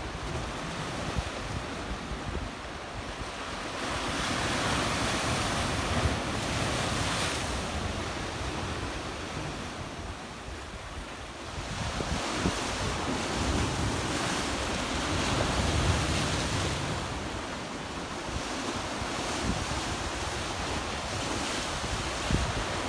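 Black Sea waves splashing among rocks on a rocky beach, a steady wash that swells twice, with a low rumble of wind on the microphone.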